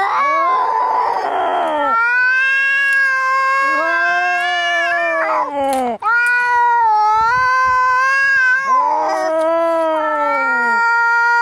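Cats in a fight yowling: long, drawn-out caterwauls that rise and fall in pitch, at times two voices at once, broken by a harsh, rasping outburst near the start and again about three-quarters of the way through.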